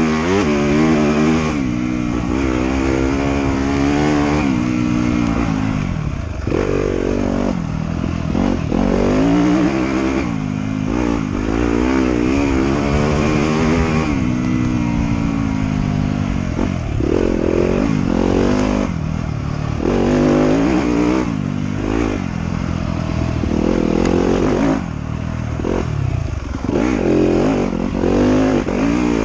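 Trail motorcycle engine being ridden hard, its pitch climbing and dropping every second or two as the throttle is opened and closed and the gears change.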